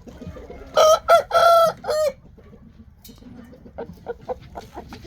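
A young Shamo rooster crowing once: a loud crow of four parts lasting about a second and a half, the last part falling in pitch. A few faint short clicks follow near the end.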